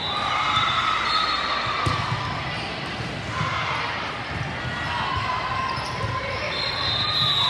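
Sounds of a volleyball match in a gym: a ball thumping off hands and floor, with a sharp hit about two seconds in, over a steady bed of background voices and high squeaks.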